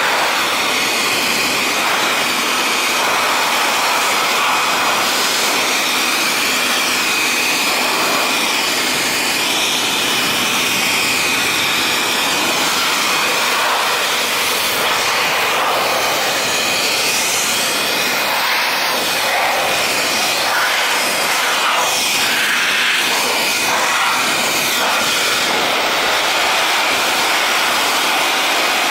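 Cyclone motorcycle dryer, a small handheld electric blower, running steadily with a high motor whine and a loud rush of air, blowing water off a freshly washed, soaking-wet motorcycle. The rush of air shifts in tone as the nozzle is moved around.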